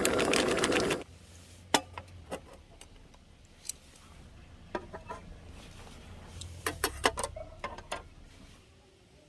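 A steady whirring cuts off about a second in, followed by scattered light clicks and clinks of small utensils or gear being handled, with a short cluster of them about seven seconds in.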